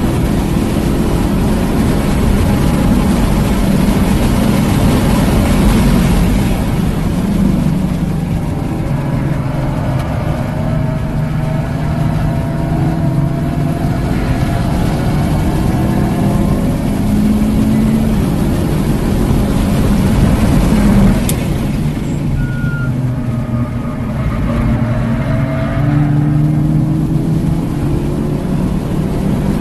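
Hyundai Elantra N's turbocharged 2.0-litre four-cylinder under hard track driving, heard from inside the cabin, with tyre and wind noise. The engine note rises under acceleration and falls when the driver lifts and brakes for corners, several times over. A single sharp click comes about two-thirds of the way through.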